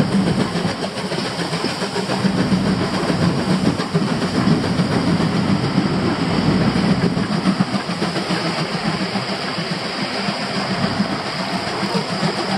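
Steam-hauled train led by the C11 325 tank locomotive running alongside: a steady rumble and clatter of wheels on the rails, mixed with road and wind noise from the car pacing it.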